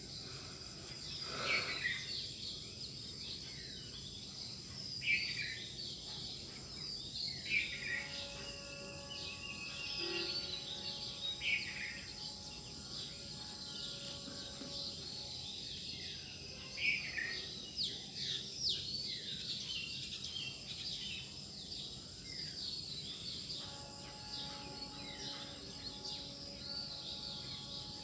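Several birds chirping and singing in a dawn chorus, with sharp, quick calls every few seconds over a steady high-pitched insect hum.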